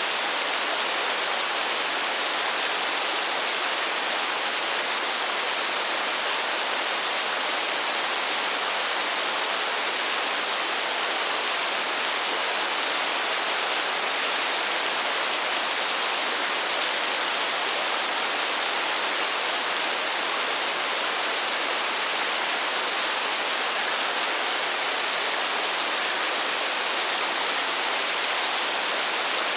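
Steady rain falling in a forest: an even, unbroken hiss of many drops with no separate splashes standing out.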